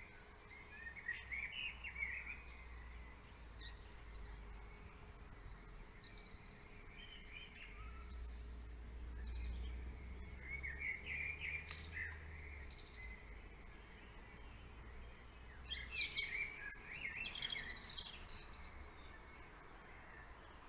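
Songbirds singing and chirping in short, scattered phrases, the loudest burst about three quarters of the way through, over a faint low background rumble.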